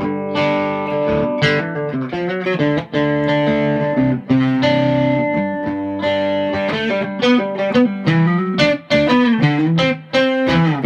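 Gibson SG electric guitar played through an amplifier: a passage of picked single notes and held notes, with quicker runs of notes in the second half.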